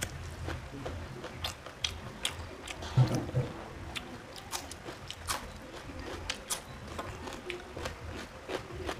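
Close-miked chewing and biting of a mouthful of rice and curry eaten by hand, with many short, crisp mouth clicks and crunches scattered throughout. A louder thump comes about three seconds in.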